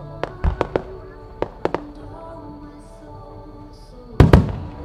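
Aerial fireworks going off: a quick series of sharp bangs in the first two seconds, then two much louder booming bursts in quick succession about four seconds in.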